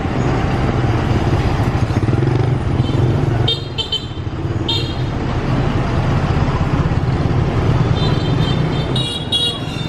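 Street traffic of motorbikes and cars: engines running steadily, with a few short horn toots about three and a half to five seconds in and longer honking near the end.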